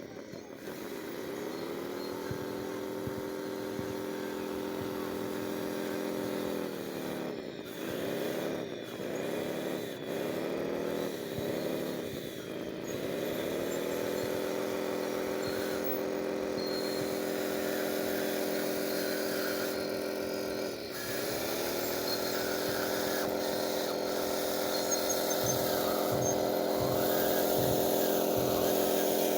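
Whine of a radio-controlled construction machine's electric motor, running steadily. Its pitch sags and recovers several times in quick succession about a quarter of the way in, and once more about two-thirds of the way through.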